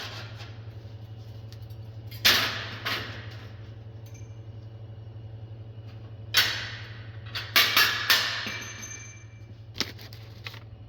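Sharp metal clanks and knocks, about eight in all, some ringing briefly, from tools and steel parts being handled while a cover is taken off a Pullmax nibbler, over a steady low hum.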